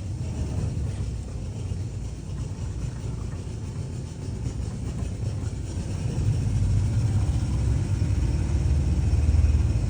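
A small boat's motor running steadily, a low rumble that grows louder over the second half.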